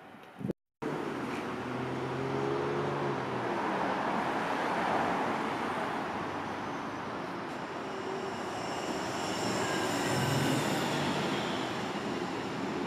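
A Berlin S-Bahn electric train approaches along the track, a steady rumbling rail noise that swells, with a high electric whine rising in pitch about eight to eleven seconds in. A brief cut to silence comes just after the start.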